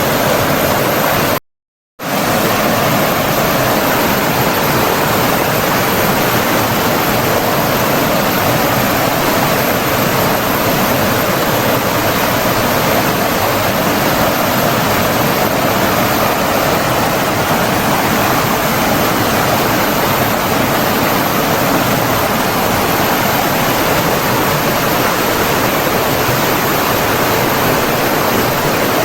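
Steady rushing of running water, as of a stream or small waterfall. It cuts out completely for about half a second about a second and a half in, then resumes.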